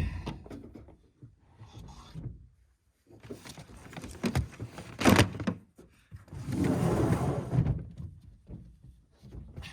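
Thuds and knocks of camping gear being handled and set down, with a longer rustling stretch about seven seconds in.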